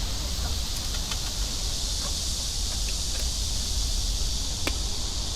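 A steady, high insect drone, with a low rumble underneath and a few faint ticks.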